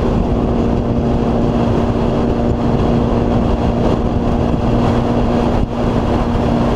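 Motorcycle engine running loud and steady at an unchanging speed, with a short dip in level about five and a half seconds in.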